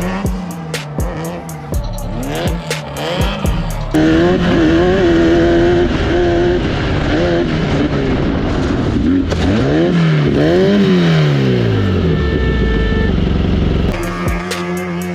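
Off-road race car engines revving hard, their pitch rising and falling as the cars accelerate and lift. This cuts in suddenly about four seconds in and cuts out near the end, with background music with a steady beat before and after.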